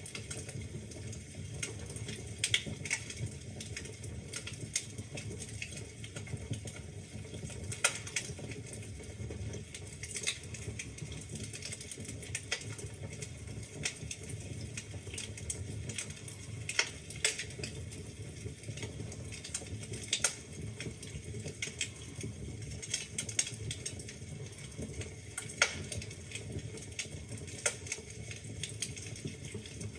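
Wood fire burning in a fireplace: a steady low rumble of flames with irregular crackles and sharp pops of the logs.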